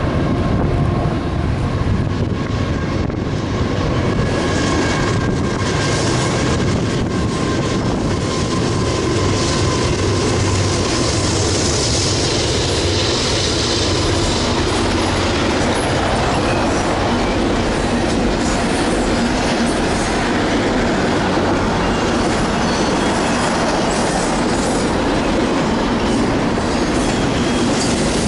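Double-stack container freight train running past at close range, a steady loud noise of its steel wheels on the rails.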